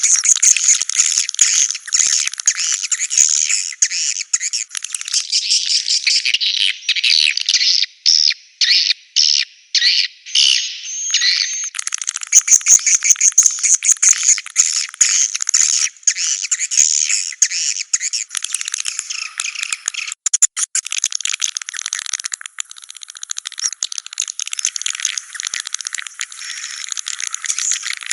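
Recorded calls of edible-nest swiftlets, a dense, continuous high twittering chatter, played as a lure sound to draw swiftlets into a swiftlet house. About eight to eleven seconds in it turns choppy, broken by short gaps.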